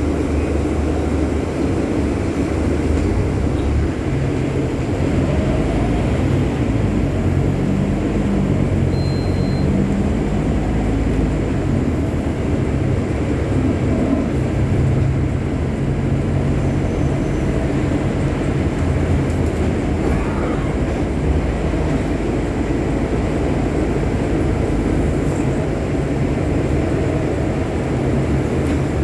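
Scania city bus's diesel engine running while under way, its low note shifting in steps several times as the bus speeds up and slows, over a steady rumble of road noise.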